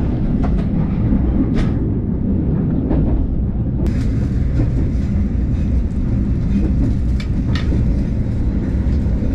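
Passenger train running along the rails: a steady low rumble with a few short clicks of the wheels on the track.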